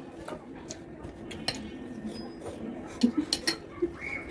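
Spoons clinking and scraping against plates while scooping up cut watermelon, with a quick run of sharp clinks about three seconds in.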